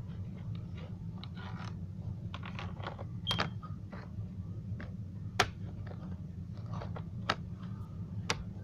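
Scattered light clicks and knocks of hands handling and adjusting pieces of a toy train layout, over a steady low hum.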